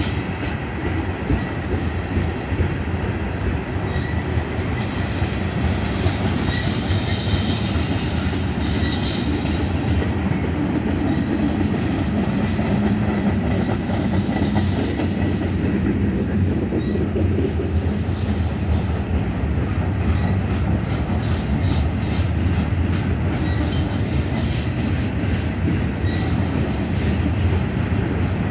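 Mixed freight train cars rolling steadily past close by, wheels clicking over the rail joints under a constant rumble. Between about six and nine seconds in there is a spell of higher-pitched wheel noise.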